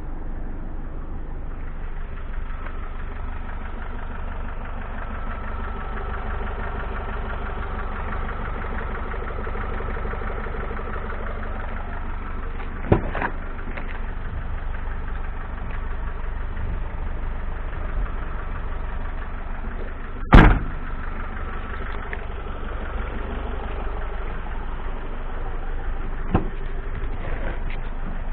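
Renault Trafic's dCi 115 diesel engine idling steadily, with a sharp click about 13 seconds in and a louder single thump about 20 seconds in.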